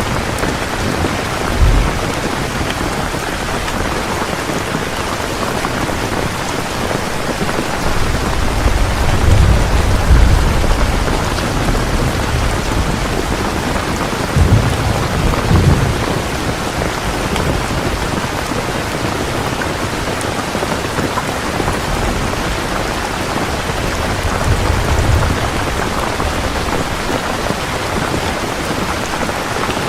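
Heavy rain falling steadily, with low thunder rumbling several times: a short rumble near the start, longer ones in the middle and a weaker one later.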